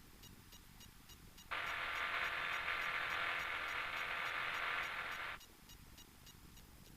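Hiss of static in the aircraft's headset audio. It switches on sharply about a second and a half in and cuts off just as sharply about four seconds later, with near silence either side.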